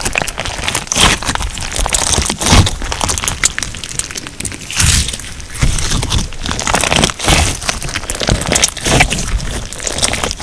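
Crunchy slime being squeezed and pressed by hand, giving dense, irregular crackling and popping with a heavier crunch every second or two.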